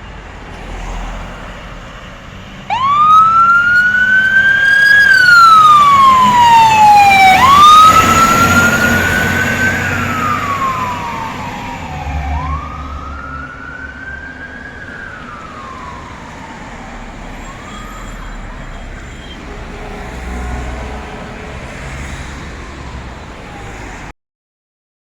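Fire truck siren wailing as it passes. It starts abruptly a few seconds in and repeats sweeps that rise quickly and fall slowly, about every two and a half seconds. It is loudest at first, then fades as the truck moves off, with a low engine rumble underneath.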